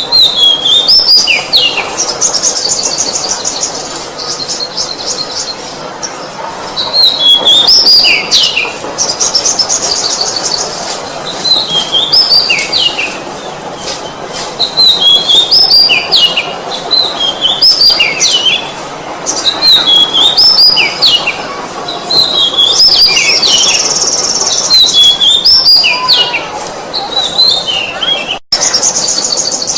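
Oriental magpie-robin (kacer) singing a loud song of whistled phrases that glide and drop in pitch, repeated every few seconds, with rapid high trills between them. The sound cuts out for an instant near the end.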